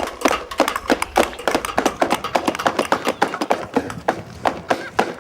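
A fast, irregular run of sharp taps and knocks, several a second.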